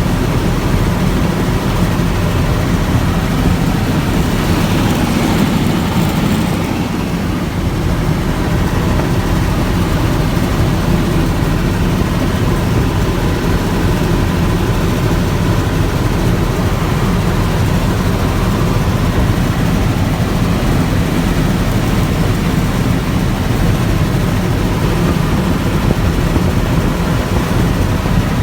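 Bell 206 LongRanger helicopter in flight: its turbine engine and rotor make a loud, steady drone, with a brief swell of higher hiss a few seconds in.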